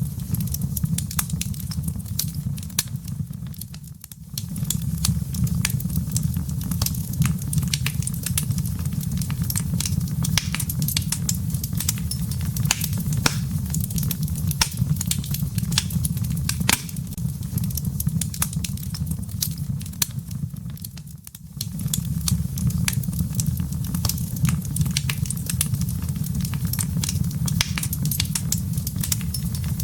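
Wood fire crackling in a fireplace: a steady low rumble of burning with frequent sharp crackles and pops from the firewood. The whole sound briefly drops away twice, then returns.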